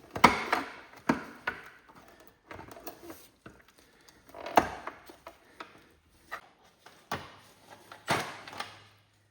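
Hand tools knocking and clinking irregularly on a garden tractor's dash: a screwdriver busting out the plastic around the light switch and a wrench on the switch nut. The sharpest knocks come just after the start, near the middle and near the end.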